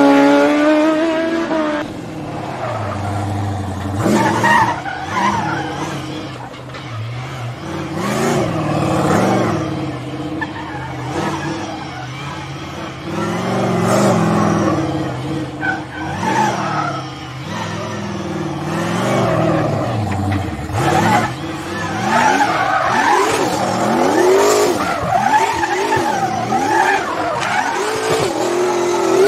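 A run of car sounds. First, a small race car's engine rises in pitch as it accelerates past. Then a 1200 hp twin-turbo Chevy LSX 454 V8 in a Nissan R35 GT-R revs up and down again and again, and near the end a drift car spins donuts, its engine revving hard with tyres squealing.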